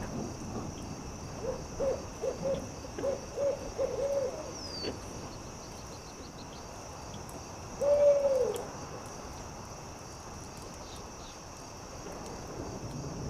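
Owl hooting: a quick run of about seven short hoots, then, about four seconds later, a single longer hoot that falls in pitch at the end. Behind it, a steady hiss with faint crackles from the campfire.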